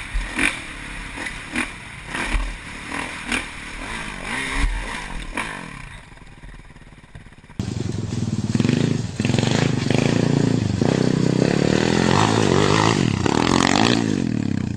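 Clattering and knocks, then, suddenly about halfway through, a motocross bike's engine running loudly, its revs rising and falling.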